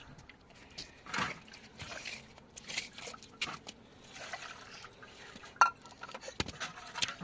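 Water splashing and trickling, with irregular light clicks and knocks; the sharpest click comes a little over halfway through.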